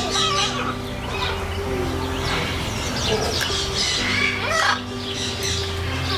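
Birds calling: a busy run of short, harsh squawks and chirps, over background music with steady held tones.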